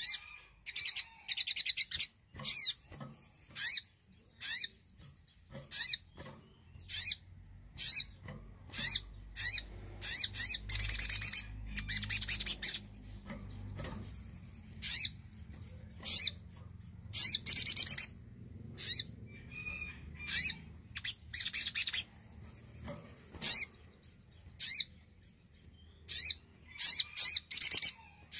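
Little spiderhunter (sogon) calling: a rapid series of short, sharp, high-pitched chirps, broken by several fast rattling trills.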